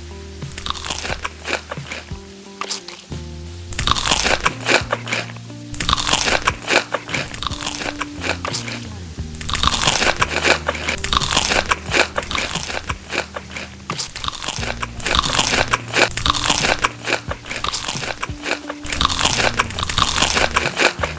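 Loud, close crunching of crisp food being bitten and chewed, in repeated spells of a few seconds each, over background music.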